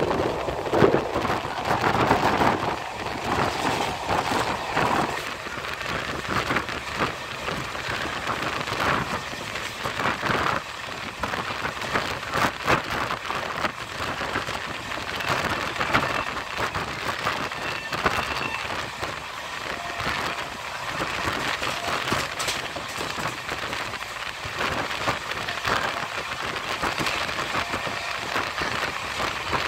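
Moving passenger train heard from an open window of the coach: a steady rush of wheel and rail noise and passing air, with occasional sharper clacks.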